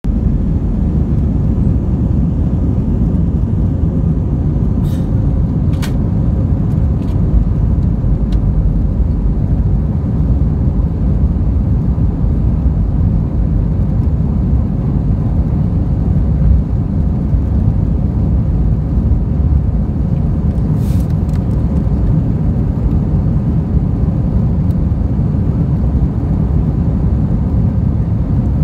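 Jet airliner cabin noise on takeoff: a steady, loud low rumble of engines and rushing air, with a few faint clicks now and then.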